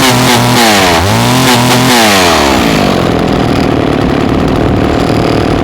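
Two-stroke engine of a 1961 Homelite XL-102 chainsaw being revved: the throttle is blipped up once more just after the start and held for about a second, then released, and the engine falls back to an uneven idle for the rest.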